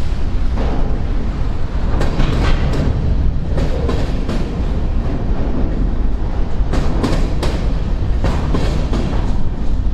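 Freight train rolling past: a steady low rumble broken by irregular clicks and knocks of wheels passing over rail joints.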